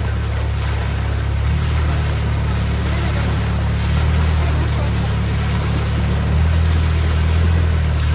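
Motorboat engine running steadily under the rush of water and wind. Its low note shifts and grows a little louder a few times.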